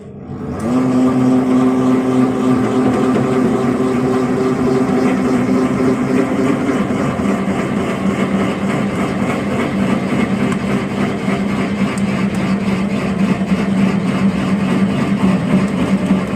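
Electric motor of a plastic waste baling press starting up and running steadily through a pressing cycle, a loud mechanical hum whose pitch drops noticeably about a third of the way in.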